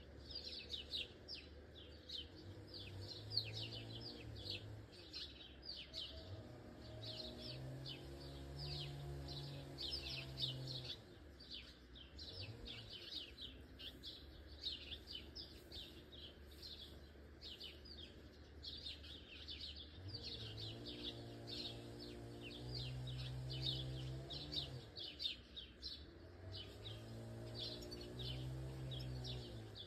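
Birds chirping without pause, a dense run of short, high chirps from several birds.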